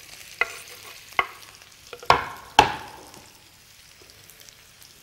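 Pieces of cut seekh kebab scraped off a wooden board into a wok of hot oil, with a few sharp knocks against the pan, the two loudest about two seconds in, and a light frying sizzle that fades to a faint hiss.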